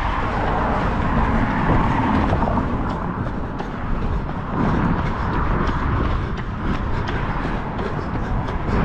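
A runner's outdoor sound mid-run: a steady low rumble of road noise with faint, quick, evenly repeating footfalls.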